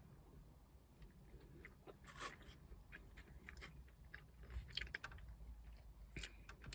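A person chewing food close to the microphone: faint, scattered mouth clicks and soft crunches, a slightly louder one about two seconds in, over a low steady hum.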